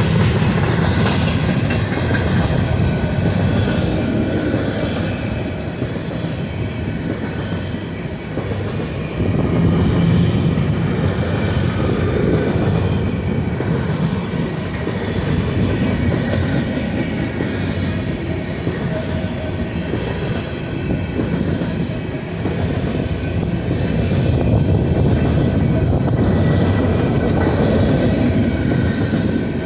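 Freight cars of a long freight train rolling past at track speed: a continuous heavy rolling noise of steel wheels on rail, with clatter over the rail joints, swelling and easing slightly as the cars go by.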